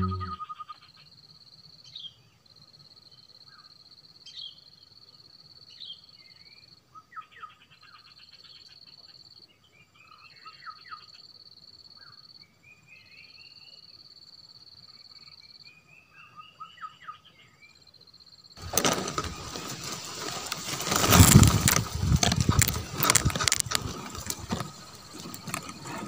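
Small birds chirping, with several short rising trilled phrases, over a steady high-pitched whine that breaks off now and then. About eighteen seconds in, a loud dry rustling of leaves and grass starts at the camera and goes on for several seconds: the coucal parent arriving at its grass nest.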